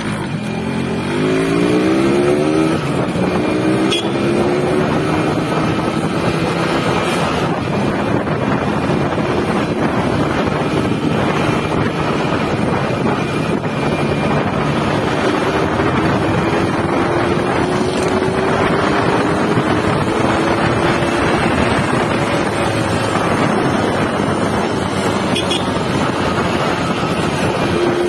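Yamaha RX-King's 135 cc two-stroke single-cylinder engine, with its stock catalytic-converter silencer, revving up quickly through the gears in the first few seconds, then pulling steadily under way with its pitch slowly climbing, twice. Wind rushes over the microphone.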